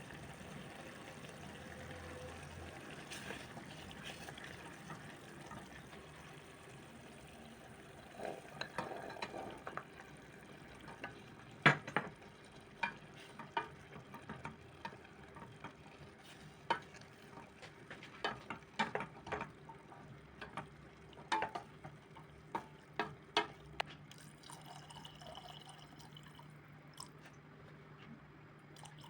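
Kitchen work sounds: a run of irregular sharp clinks and light knocks of utensils and dishes, over a faint steady hum.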